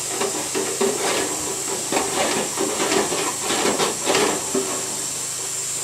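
Duct-cleaning vacuum machine running, a steady rushing hiss with a constant hum and whine, broken by irregular knocks and rattles in the ductwork.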